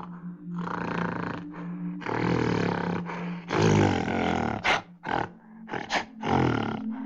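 A large animal roaring and growling in a string of rough calls, each a second or so long, with a few short, sharp calls between them.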